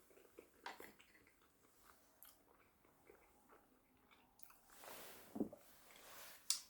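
Near silence with a few faint, scattered clicks and a soft rustle about five seconds in, with a brief louder tick within it.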